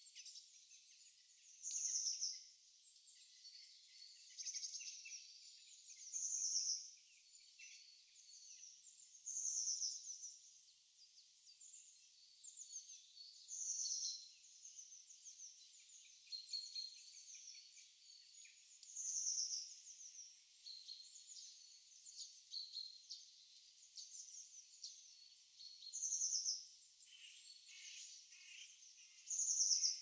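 Wild songbirds singing and chirping, high-pitched. A louder short song phrase comes again every few seconds over a background of many thinner chirps from other birds.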